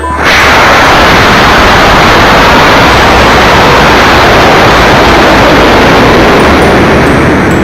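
High-power model rocket motor roaring at launch: a very loud, steady rushing roar that starts abruptly and eases slightly near the end.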